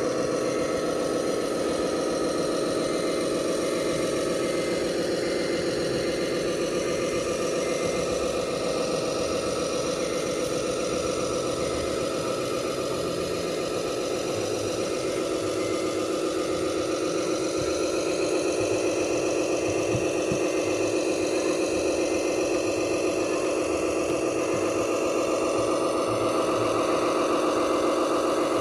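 Simulated truck engine running steadily, from the sound unit of a 1/14 scale Tamiya Mercedes-Benz RC tipper truck. It gets a little louder and brighter about two-thirds of the way in.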